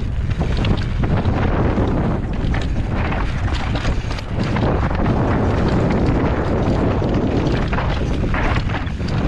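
Wind buffeting the microphone of a camera carried on a moving mountain bike, with many short knocks and rattles throughout.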